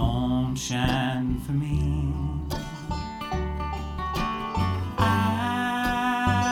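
Live bluegrass band playing a slow country song: plucked acoustic guitar and banjo over a bass line. A long note is held from about five seconds in.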